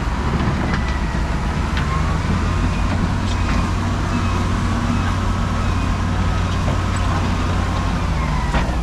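Road traffic noise: a steady low rumble of passing vehicles, with a few faint clicks.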